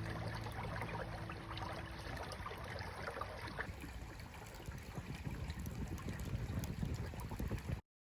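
Small river burn running, a steady rushing and trickling of water with short crackly clicks through it. It cuts off abruptly near the end.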